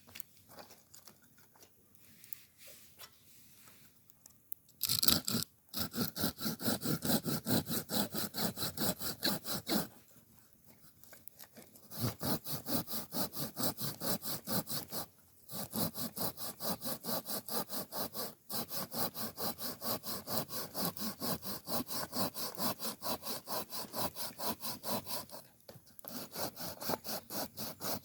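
Hand saw cutting through wood in quick back-and-forth strokes, about three a second. It starts about five seconds in and stops briefly a few times.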